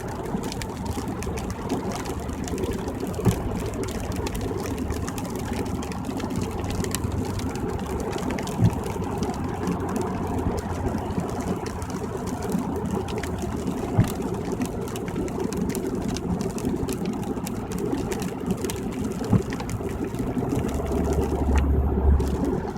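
Steady road and engine noise from a car driving on a rain-wet highway, heard from inside the cabin, with a low rumble under it and a brief knock about every five seconds.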